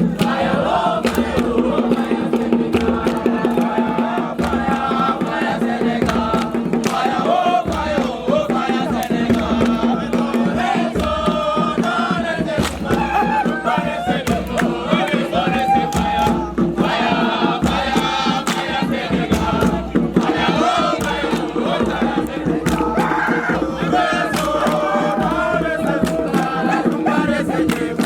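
A group of voices singing and chanting together, with frequent sharp claps or beats running through it.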